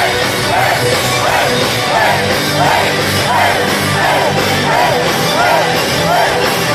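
Power metal band playing live at full volume, with a repeating melodic line of about two notes a second over dense guitars and drums, and a voice singing or yelling.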